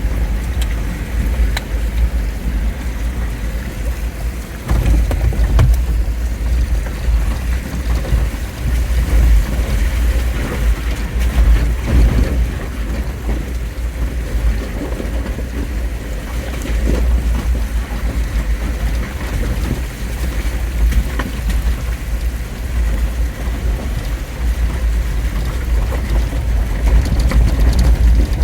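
Jeep Wrangler driving through flash-flood water over the road: a steady low rumble of engine and tyres with water washing around the wheels.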